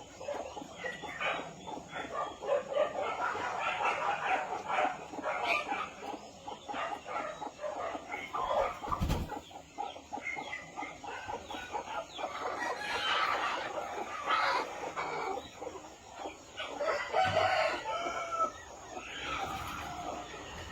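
A flock of chickens clucking continuously, with a rooster crowing among them. A brief low thump about nine seconds in.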